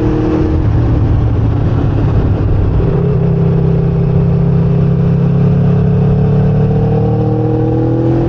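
Sport motorcycle's engine running under way, heard from the bike's own onboard camera. Its pitch climbs slowly through the second half as the bike gathers speed.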